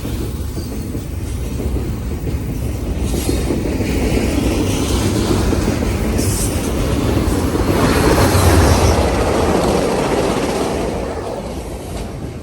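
A train passing close by on the tracks, its wheels rumbling and clattering over the rails. It builds to its loudest about eight seconds in and then eases off, with a few brief high squeals from the wheels.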